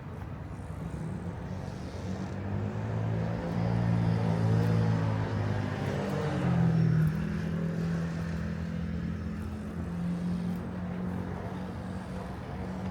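Car engine passing close by amid street traffic. It grows louder a couple of seconds in, shifts pitch about halfway through, then settles into a steadier hum.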